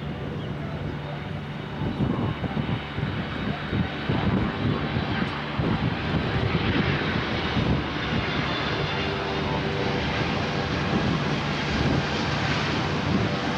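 Jet airliner engines running nearby: a loud, steady rushing noise with engine tones in it, growing a little louder a few seconds in.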